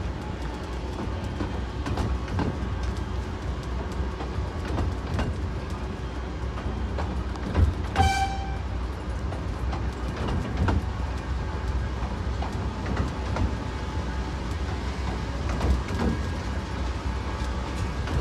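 Miniature railway train running on the rails, a steady low rumble with frequent clicks of the wheels over rail joints. About halfway through, the locomotive gives one short toot.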